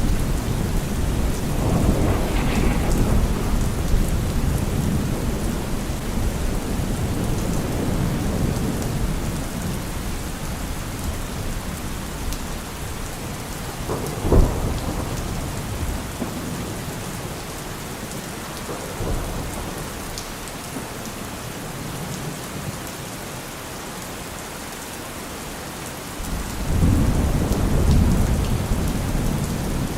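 Steady rain with rolling thunder. Low rumbles fade through the first half, a sharp thunderclap comes about halfway, and after a quieter stretch a new long rumble rises near the end.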